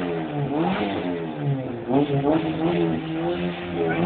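Peugeot 206's engine revved in several quick blips, the pitch rising and falling each time, then held steady at a higher rev near the end.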